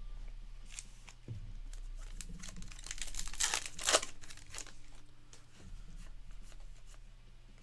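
Crinkling and rustling of trading cards and their plastic or paper packaging being handled, with a dense run of crackles about three to four seconds in.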